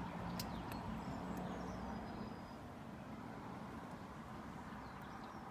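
Quiet outdoor background: a steady low rumble with a faint hum that fades after about two seconds, and a few faint clicks in the first half-second.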